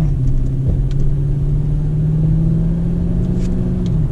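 5.7-litre Hemi V8 with a muffler delete droning at a steady cruise. The pitch dips briefly just after the start, holds steady, then drops again near the end.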